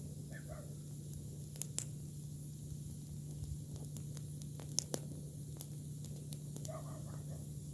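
Campfire of green cudrania branches crackling, with scattered sharp pops, the loudest about five seconds in, over a steady low hum. Short faint chirping sounds come just after the start and again near the end.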